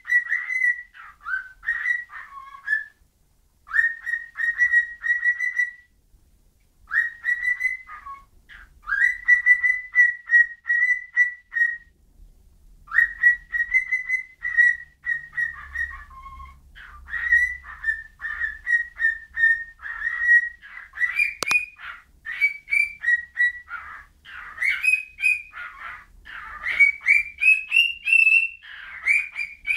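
Pet bird whistling: phrases of short, quick rising whistled notes with brief pauses between them, running almost without a break in the second half. One sharp click about two-thirds of the way through.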